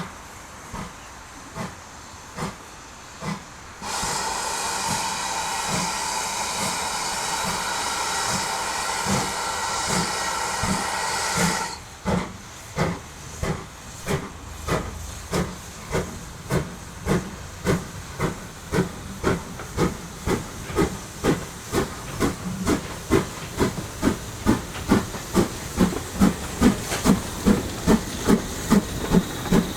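GWR tank steam locomotive working a train, its exhaust chuffing at a slow steady beat. About four seconds in a long whistle sounds for nearly eight seconds. The chuffs then grow quicker and louder as the engine picks up speed.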